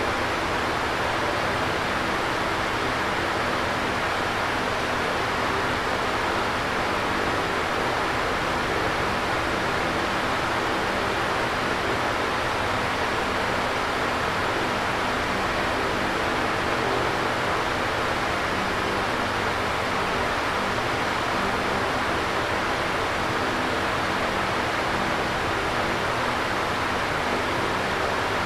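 Electric fan running steadily, a smooth whoosh of moving air with a faint low motor hum underneath.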